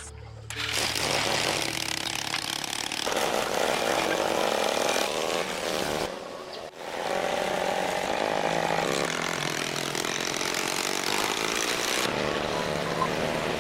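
Motorcycle engine running with a busy buzzing note, cut off briefly twice.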